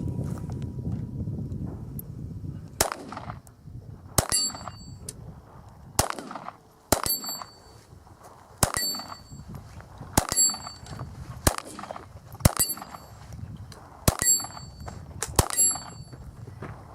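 About ten .22 rimfire shots at an uneven pace of one every one to two seconds, most followed at once by the high ring of a bullet striking a steel target.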